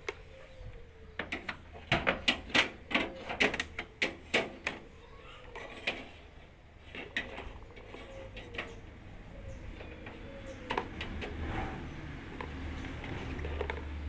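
A quick run of sharp clicks and knocks of hard parts being handled, about a dozen in three seconds, then scattered single clicks. A low hum grows louder near the end.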